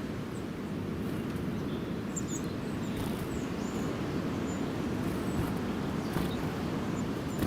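Steady low outdoor rumble, with a few faint, short bird chirps about two to three seconds in and a couple of soft clicks.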